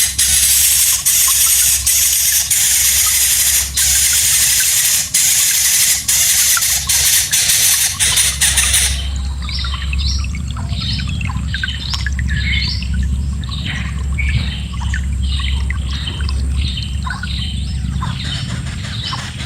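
A loud steady hiss for about the first nine seconds gives way to many rapid, high-pitched chirps and squeals from bird chicks, over a low hum.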